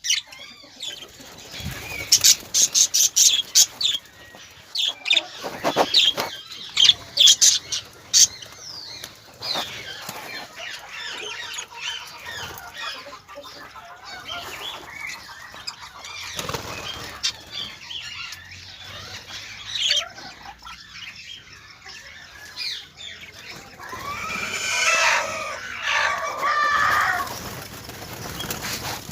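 Birds fluttering and flapping their wings, with a fast run of flaps in the first several seconds, then scattered flutters and calls, and a longer burst of calling a few seconds before the end.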